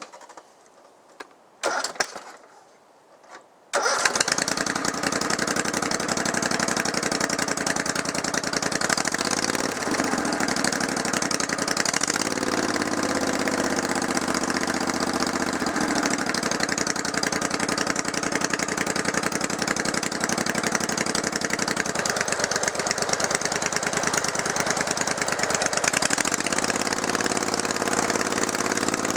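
20 hp Kohler V-twin lawn tractor engine starting: it fires abruptly about four seconds in, then runs steadily, its speed rising and falling at times.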